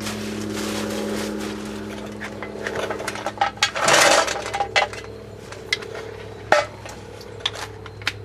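Metal hand tools clinking and rattling, with a denser rattle about four seconds in and a few sharp clinks later, over a steady background hum.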